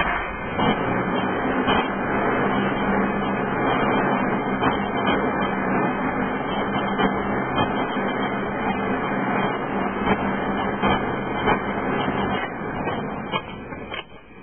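A 1997 Mitsubishi 3000GT VR4's twin-turbo V6 engine is cranked and fails to start. The sound is a steady mechanical whir with a constant low hum, with both cooling fans running fast, and it dies away over the last couple of seconds. The owner reads the fast fans and relay buzzing as signs of a no-start fault he has not yet traced.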